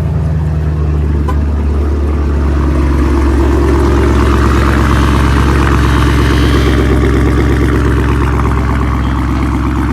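A car engine running loudly with a deep, steady note. It grows louder over the first few seconds, then holds.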